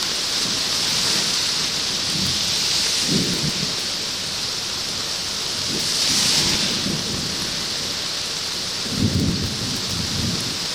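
Thunderstorm rain, played back at eight times normal speed: a steady hiss of rain on the plastic sheet covering the camera, broken several times by short low rumbles of sped-up thunder.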